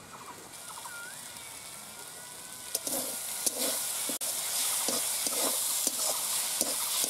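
Jute leaves frying in oil in a metal pan, sizzling, while a metal spatula stirs them with repeated scrapes and clicks against the pan. The sizzle and stirring grow louder about three seconds in.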